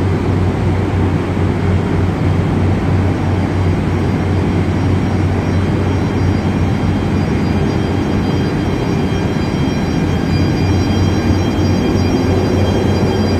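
Korail 8500-series electric locomotive running with a loud, steady hum and a thin high whine that grows clearer about five seconds in.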